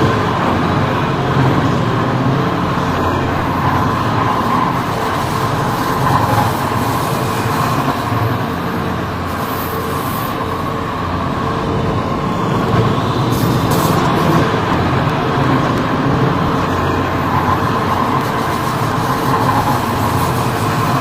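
MTR Tseung Kwan O line C-Train electric multiple unit running between stations, heard from on board: a steady rumble of wheels on track with a faint, even electrical hum.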